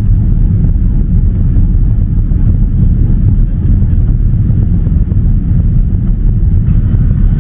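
Steady cabin noise inside a climbing Boeing 787-9: the deep, even drone of its Rolls-Royce Trent 1000 engines and the airflow over the fuselage, heaviest at low pitch.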